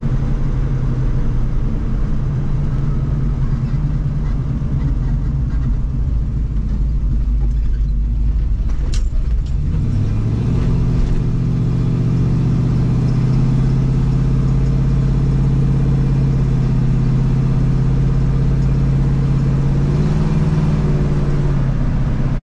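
1973 Ford Mustang Mach 1's 351 V8 running steadily as the car cruises, heard from inside the cabin. About nine seconds in there is a click and the engine note bends up briefly before settling again. It rises slightly once more near the end.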